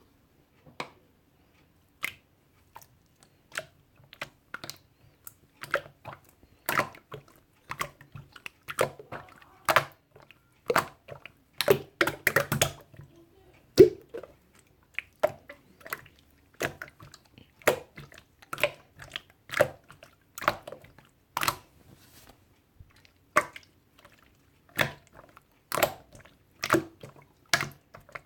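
Close-up crunching sounds, like chewing: a run of sharp, crackly crunches, sparse at first and about one or two a second from roughly six seconds in.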